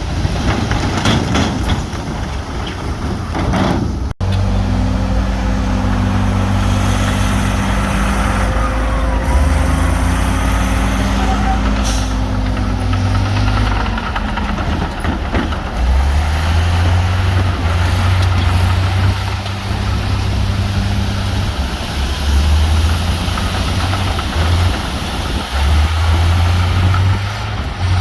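Heavy diesel engines of earthmoving machines running at a stone-fill site. A rougher, clattering noise lasts about four seconds, then breaks off suddenly into a steady low engine drone whose pitch shifts up and down from time to time.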